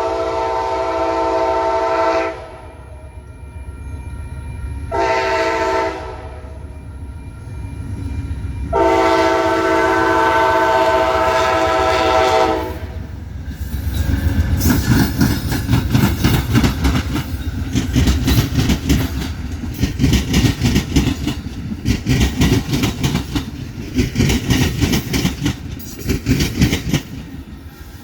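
Locomotive air horn sounding a chord in three blasts, long, short, long, the closing pattern of a grade-crossing signal. From about halfway through, the train's wheels clatter steadily as its cars pass.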